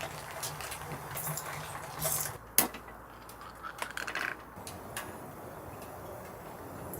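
Cookware and utensils being handled, with scattered light clinks and knocks; the sharpest knock comes about two and a half seconds in.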